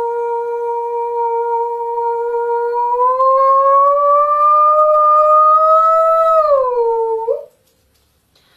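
A woman's voice sustaining one long wordless sung note for sound healing. It holds steady, slowly rises in pitch about three seconds in, then falls back and stops about seven seconds in.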